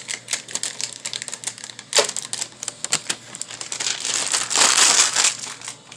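Hands handling printer parts and plastic: scattered sharp clicks and crinkling, with one sharp click about two seconds in and a louder rustle about four and a half seconds in.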